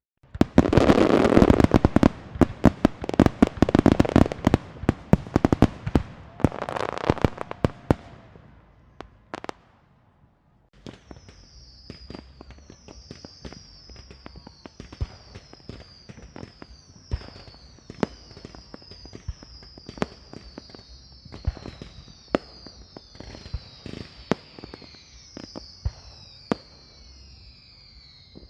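A string of firecrackers going off in a dense, loud, rapid crackle of bangs that fades out after about eight seconds. After a short lull, scattered firework pops continue under a repeated high falling whistle.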